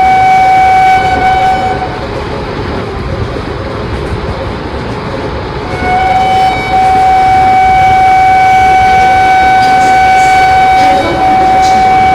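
Indian Railways electric train's horn sounding two long, steady blasts, the first ending about two seconds in and the second starting about six seconds in and held, briefly broken near the end, over the continuous rumble of the passing train.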